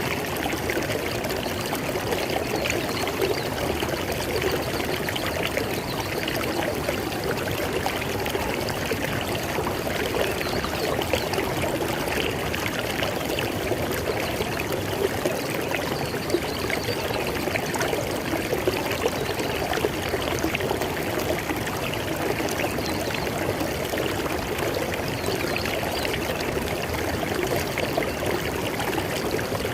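River water flowing steadily, a continuous rushing and splashing over rocks with no change in level.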